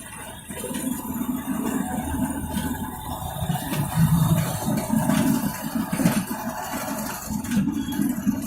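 Steady low rumble of a moving train, rising and falling in level.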